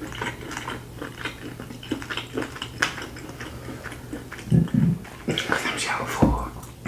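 Close-up wet chewing and lip-smacking from eating saucy deshelled seafood boil, a run of short clicks and smacks. A brief low murmur from a voice about two-thirds of the way through, and fingers digging into the sauce near the end.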